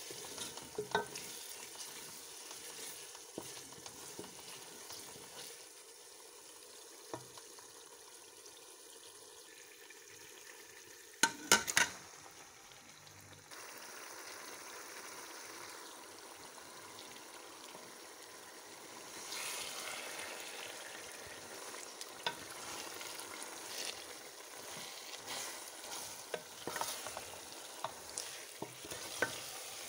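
Onion-tomato masala sizzling in a metal pan while it is stirred with a wooden spatula, then raw chicken pieces frying and being turned in it. A burst of loud knocks comes partway through, and the sizzling grows louder in the second half.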